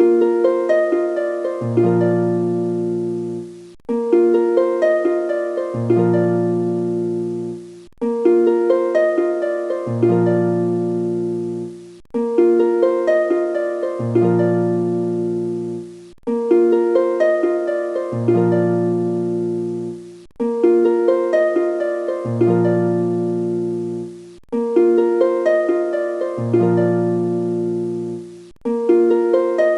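Background music: a short plucked harp-like phrase of quick fading notes over a low bass, looping about every four seconds.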